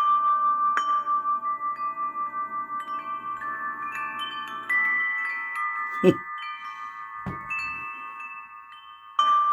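Recorded wind chimes from the relaxation mode's chimes track, played through the Greadio R-10 portable radio's speaker: several chime tones ring together and fade slowly, with a fresh cluster of strikes at the start and again near the end. A brief low thump about six seconds in, and a lighter one a second later.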